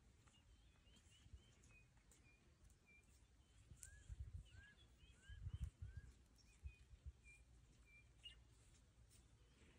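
Faint birdsong: short chirps repeated throughout, and a run of four arched whistled notes a little before the middle. A few low muffled bumps come in the middle.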